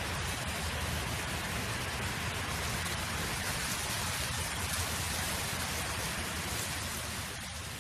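Steady wind noise: a broad rushing hiss over a low rumble of wind buffeting the microphone, starting to fade near the end.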